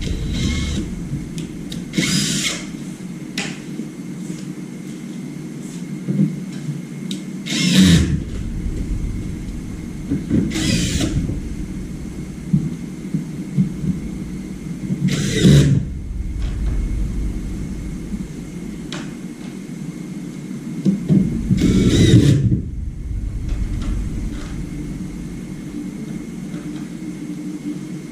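Five short bursts, each about half a second, from a small motorised tool, over a steady low hum.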